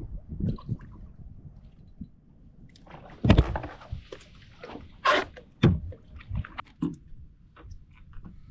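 Water sloshing and splashing against a kayak, with irregular knocks and clicks on the hull and gear. The loudest is a heavy thump about three seconds in.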